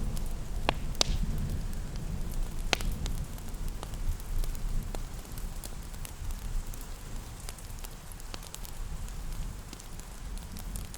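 Wood fire crackling with scattered sharp pops, a few louder ones in the first three seconds, over a steady low rumble and the hiss of steady rain.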